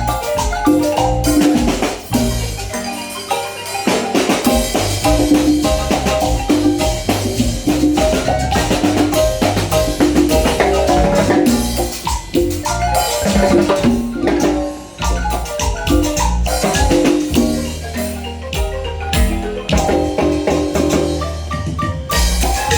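Marimba band music: rapid repeated marimba notes over a drum kit and a steady bass line.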